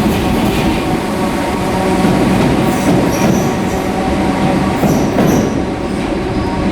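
Merseyrail PEP-family electric multiple unit running along the platform, a steady rumble of wheels on rail with short high wheel squeals about three seconds and five seconds in.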